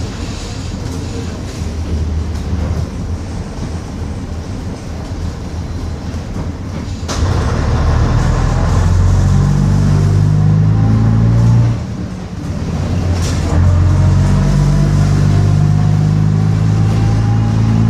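Bristol RELL6L single-deck bus's diesel engine heard from on board, running quietly at first, then pulling away after a sharp click about seven seconds in. The engine note and a rising whine build, drop briefly about twelve seconds in as it changes gear, then build again after another click.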